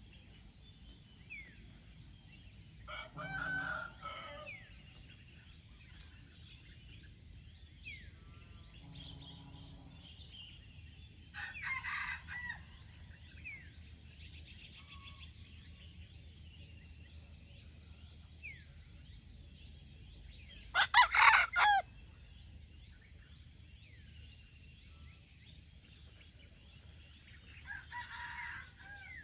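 A rooster crowing four times in short, clipped crows about a second long, the third, about two-thirds of the way through, much the loudest. A steady high insect drone runs underneath, with a few faint bird chirps.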